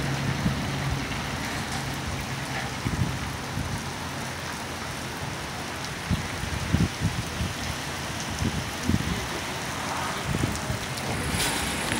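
Heavy rain falling steadily on a paved parking lot, an even hiss. A low steady hum, likely a vehicle, sounds under it in the first two seconds.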